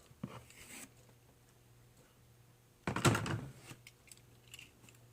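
Toy blister packaging being handled and torn open, with a short crinkle near the start and one loud rip about three seconds in, followed by a few light clicks.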